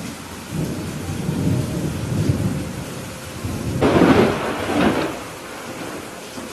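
Thunderstorm: steady rain with thunder rumbling low. About four seconds in, a louder, sharper clap of thunder breaks and rolls away within about a second.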